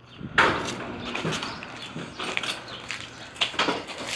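Irregular knocks and clatters over a low rustling noise: a sharp one about half a second in, a few scattered through the middle, and a quick pair near the end.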